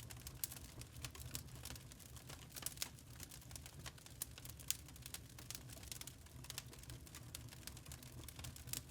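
Wood fire crackling in a fireplace: many irregular sharp pops and snaps over a low steady rumble of the burning logs.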